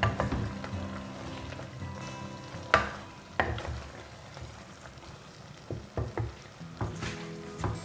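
Food sizzling in a frying pan while it is stirred, a utensil knocking against the pan several times, over soft background music.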